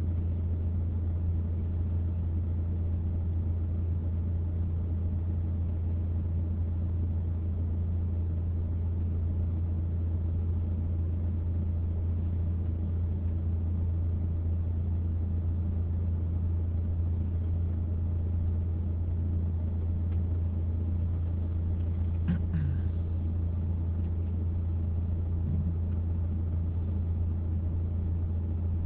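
Steady low hum of a car's engine, heard from inside the cabin, running evenly.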